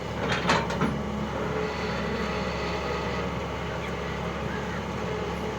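Diesel engine of a tractor or backhoe loader running steadily, with a few sharp knocks or clanks within the first second.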